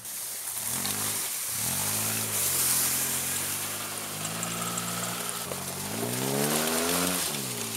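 1990 Pontiac Firefly's small three-cylinder engine revving up and down repeatedly as the car is driven over rough snowy ground, with rushing tire noise from the chained tires. The engine pitch holds steady for a few seconds midway, then climbs again and drops near the end.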